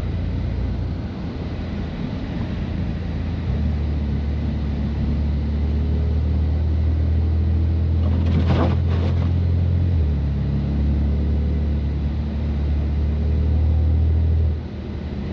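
Twin-turbo inline-six of a BMW F80 M3 with catless downpipes and an open-valve exhaust, droning at low, steady revs while driving slowly through snow. The drone gets louder a few seconds in, steps slightly lower in pitch about ten seconds in, and eases off shortly before the end.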